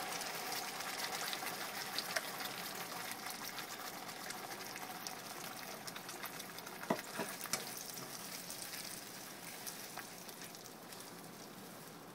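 Blended onion-tomato curry paste sizzling as it hits hot butter in a nonstick pan while it is stirred with a silicone spatula. The sizzle is loudest at first and gradually dies down, with a few sharp clicks about halfway through.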